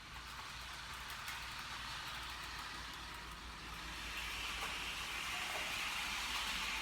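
HO scale model locomotive running along its track while pulling two coaches, giving a steady hissing run of motor and wheels on the rails that grows louder about four seconds in.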